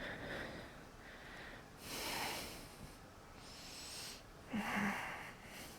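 A woman breathing audibly while holding a plank: a few slow breaths in and out, a second or two apart.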